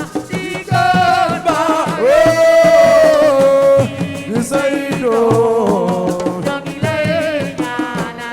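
Live assiko band music: a singer holding long, wavering notes without clear words over hand drums and shakers.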